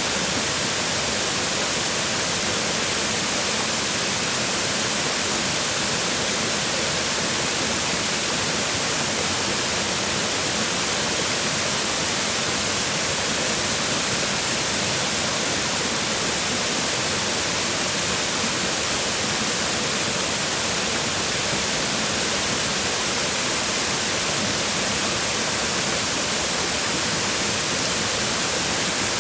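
Waterfall water falling and splashing on rocks: a steady, dense rush, even throughout and strongest in the hiss of the highs.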